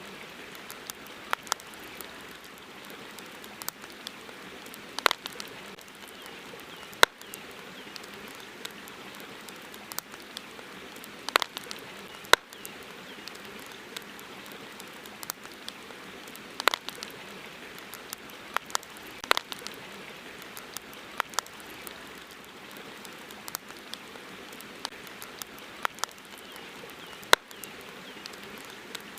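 Wood campfire crackling: irregular sharp pops and snaps, a few every second or two, over a steady hiss.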